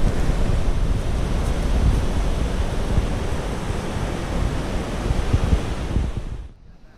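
Ocean surf with wind buffeting the microphone: a steady, rough rush that drops away abruptly near the end.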